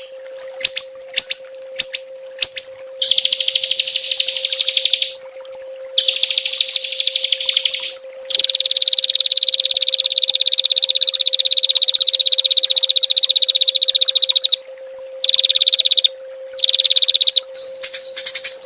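A small songbird gives a few sharp short calls, then a series of rapid, buzzy, high trills ('tembakan'). The longest trill lasts about six seconds in the middle. A steady low hum runs underneath.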